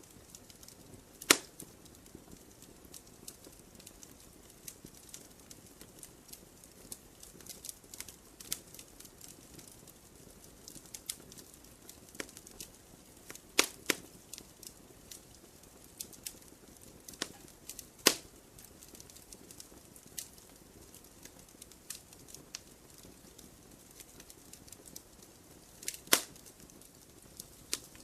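Wood campfire crackling: irregular small snaps and ticks over a faint hiss, with a few louder pops scattered through.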